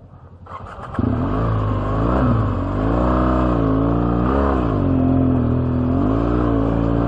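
BMW R1200GS boxer twin engine comes in abruptly about a second in, after a quiet moment with a few clicks, then revs up and down under load as the bike climbs a rocky trail.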